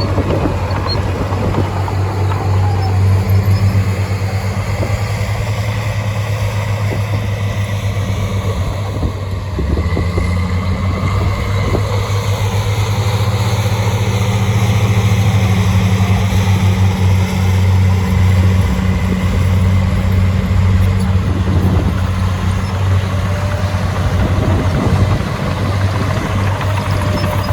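Heavy diesel engine of an earthmoving machine running steadily with a low drone and rapid pulsing; it briefly dips and changes pitch about ten seconds in, then carries on.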